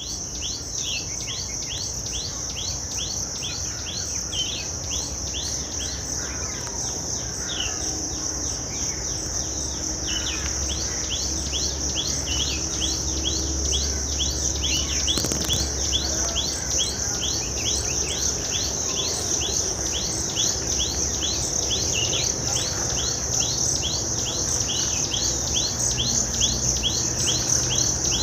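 Insects, crickets or similar, droning in a steady high-pitched chorus, with rapid short chirps repeating about four to five times a second and birds calling now and then.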